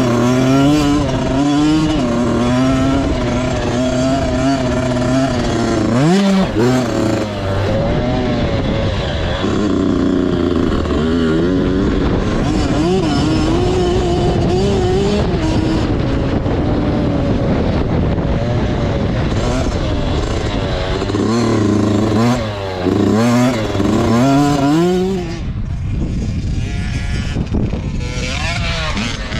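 Motocross bike engine being ridden hard, its pitch rising and falling with the throttle and gear changes. There is a sharp rev about a sixth of the way through, and a run of quick revs near the end before it eases off.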